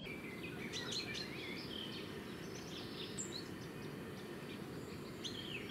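Birds giving scattered short chirps and calls over a faint, steady low background hiss of outdoor ambience.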